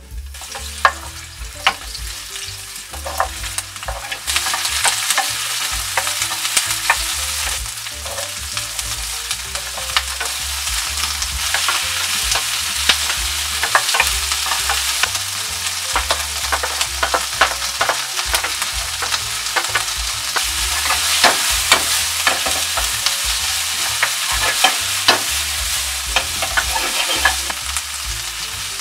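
Carrot, onion and bell pepper pieces sizzling in hot olive oil in a frying pan, with a wooden spatula stirring and clicking against the pan many times. The sizzle grows louder about four seconds in.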